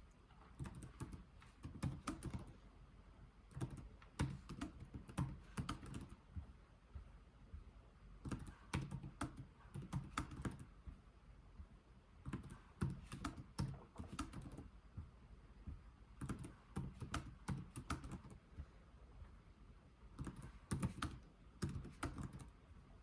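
Slow, deliberate typing on a computer keyboard: runs of key clicks lasting a second or two, separated by short pauses.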